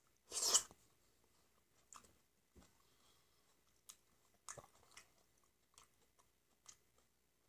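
Close-miked eating of a peeled black grape: one loud wet bite-and-squish about half a second in, then soft chewing with scattered small clicks and smacks.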